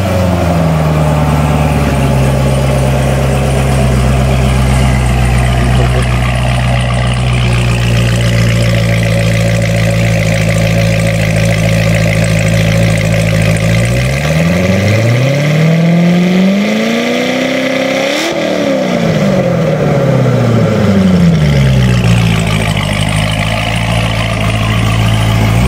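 2010 Chevrolet Corvette ZR1's supercharged 6.2-litre V8 idling steadily, then revved once about fourteen seconds in, climbing smoothly for a few seconds and dropping back to idle.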